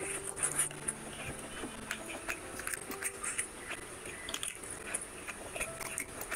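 Mouth sounds of eating rice and mutton curry by hand: wet chewing and smacking with many small clicks, and the squish of fingers mixing rice into gravy. Soft background music with held notes plays underneath.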